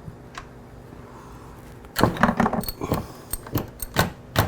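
Metal clinking and rattling: a quiet first couple of seconds, then a run of light, sharp clicks and clinks to the end, like tools or keys being handled.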